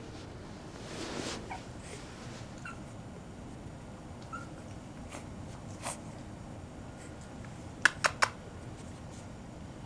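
Seven-week-old Pekingese puppies giving a few short, high squeaks, with a brief rustle about a second in. Three sharp clicks in quick succession near the end are the loudest sounds.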